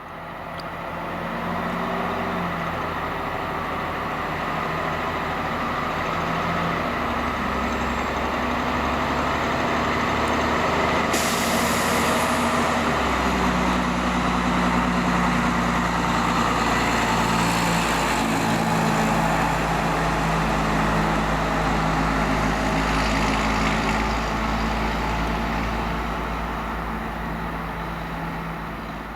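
Fire truck's diesel engine running and pulling away, its engine note shifting as it moves off, with a sharp air-brake hiss about eleven seconds in.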